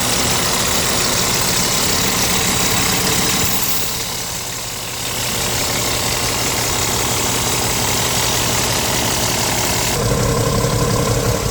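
Scania R tractor unit's diesel engine idling steadily. The sound dips briefly about four seconds in and changes tone, with a stronger low hum, near the end.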